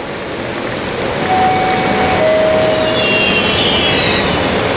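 Electric locomotive-hauled express train rolling into the platform, its steady rumble growing louder, with brief squealing tones partway through.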